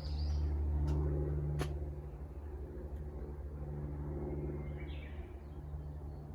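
A low, steady mechanical rumble with a few short bird chirps over it, one right at the start and another about five seconds in.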